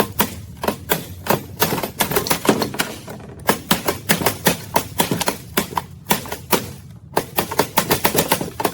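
Quick runs of sharp metal taps, several a second with short breaks about three seconds in and again near seven seconds: a hammer tapping a tight-fitting part into place on a trike.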